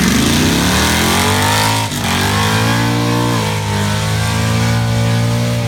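Car engine accelerating hard: its pitch climbs for about two seconds, breaks off sharply at a gear change, then holds high and steady, dipping slightly once more near the end.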